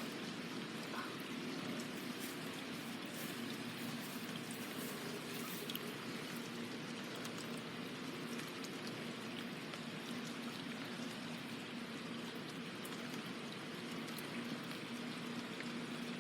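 Running water trickling steadily, with a low steady hum underneath and faint scattered ticks.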